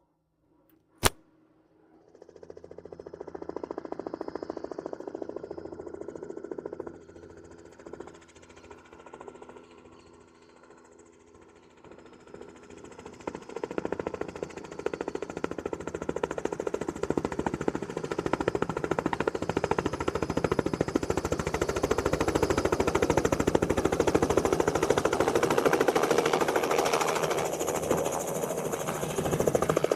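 A sharp click about a second in, then the rapid rotor chop and turbine sound of a Robinson R66 helicopter coming in to land, which fades for a few seconds and then grows steadily louder as it approaches.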